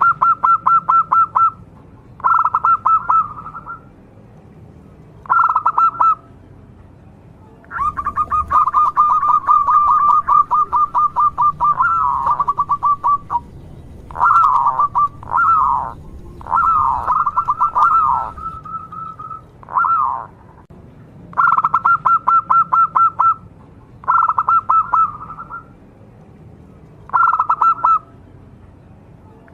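Local zebra dove (perkutut) cooing: about a dozen phrases of fast, rattling coos with short pauses between them, and one long unbroken run near the middle.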